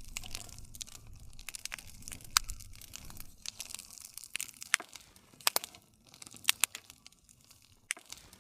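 Wood fire crackling, with irregular sharp pops over the low rush of the flames; a few pops stand out loud.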